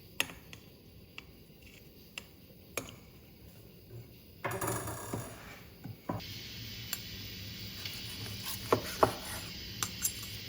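Kitchen handling sounds: scattered sharp clicks and clinks of dishes and utensils being set down and moved. A short stretch of rustling and scraping comes about halfway through, and a few louder clinks come near the end.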